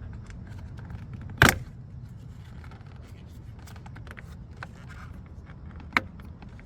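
Two sharp clicks about four and a half seconds apart, the first the loudest, among faint small ticks and rattles of handling, over a low steady rumble.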